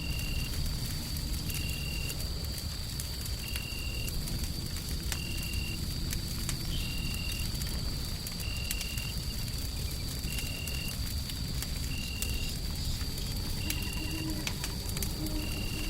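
Wood fire crackling with scattered sharp pops over a deep, steady rumble of white noise. A short, high chirp repeats evenly about every second and a half throughout, over a faint steady high whine.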